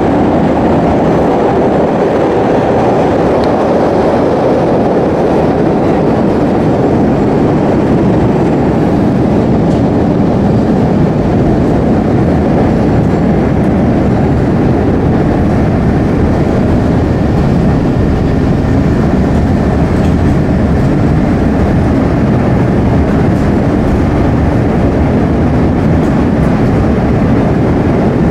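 Chicago 'L' Blue Line train running at speed on the elevated structure, heard from inside the car: a loud, steady noise of wheels on the rails and the car in motion.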